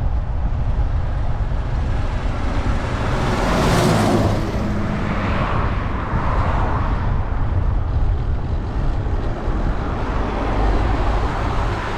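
Motor traffic passing close by on a busy main road, with a vehicle going past loudest about four seconds in and more following, over a steady low wind rumble on the microphone.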